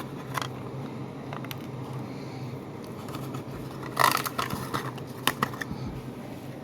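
Toy car packaging being handled and opened: scattered clicks and a louder burst of crackling about four seconds in, over a steady low hum.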